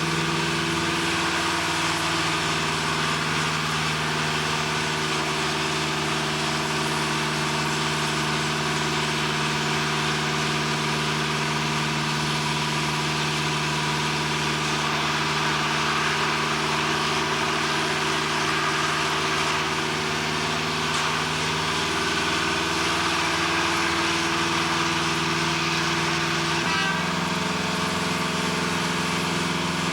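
A heavy engine running steadily at idle, a constant low drone with a slight shift in its pitch about 27 seconds in.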